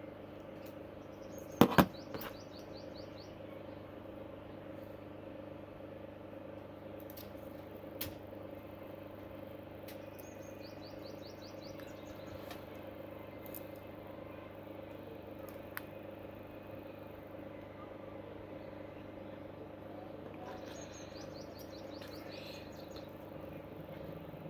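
A steady low hum runs throughout. Two sharp clicks come close together about two seconds in, with single faint ticks later. A short run of rapid high chirps comes three times, roughly every ten seconds.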